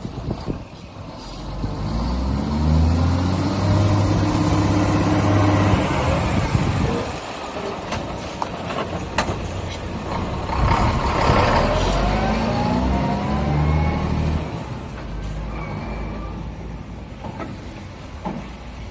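Scania R420 truck's six-cylinder diesel engine revved twice from idle, each rev held for a few seconds before falling back. A rising and falling whine rides on the second rev.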